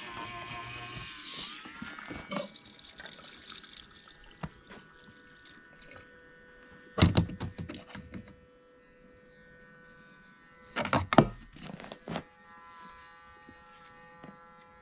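Small electric fuel transfer pump motor whirring steadily while fuel is pumped into an excavator's tank. Its pitch shifts about a second and a half in. Two loud metallic knocks come about 7 and 11 seconds in.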